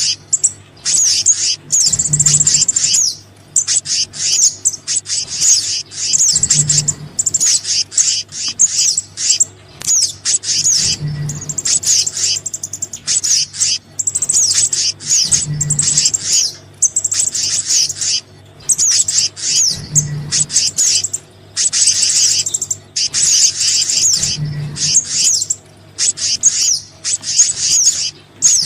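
Bird-lure recording of small songbirds, billed as sogon and kehicap (black-naped monarch), calling over and over: dense, rapid, high-pitched chirps and trills in bouts with short breaks. Under the calls there is a steady low hum and a low pulse that repeats about every four and a half seconds, as in a looped track.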